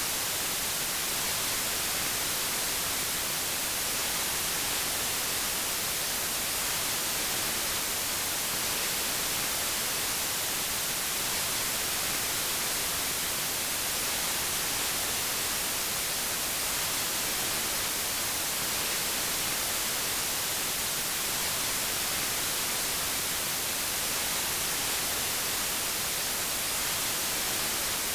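White noise: a steady, even hiss, brightest in the treble, that never changes.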